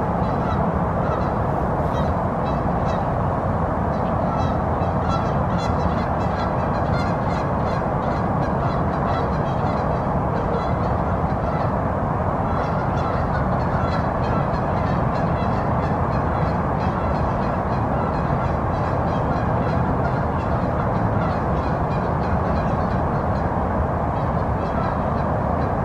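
Birds calling repeatedly in quick series of short, high notes over a steady rush of background noise.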